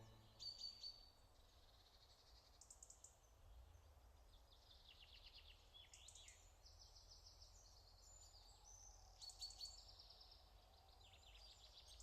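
Faint birdsong: several small birds chirping and trilling, with short runs of quick high notes repeated throughout.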